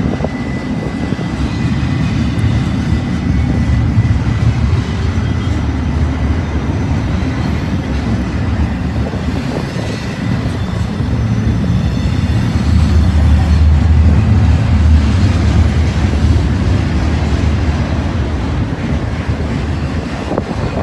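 Freight train rolling past on the rails and picking up speed: a steady, loud rumble of wheels and cars that swells loudest a little past the middle.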